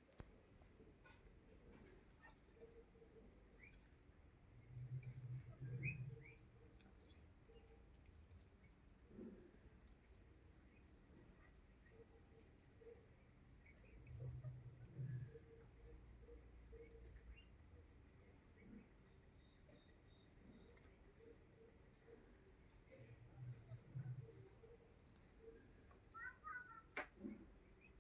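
Night chorus of crickets: a steady, high-pitched trill. A low sound comes in about every nine seconds, three times in all, and there is a sharp click near the end.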